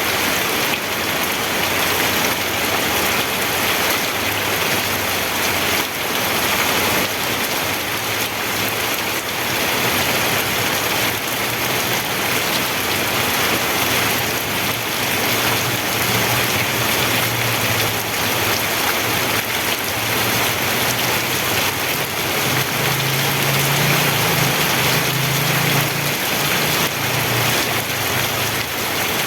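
Steady heavy rain falling, an even, unbroken hiss of drops on surfaces. A faint low hum runs underneath, growing a little stronger in the second half.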